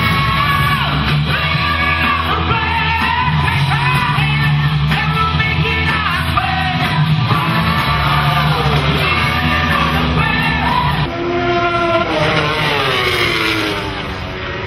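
Rock music with a loud sung vocal over a band. The bass and drums drop out about eleven seconds in, leaving mostly the voice with gliding notes.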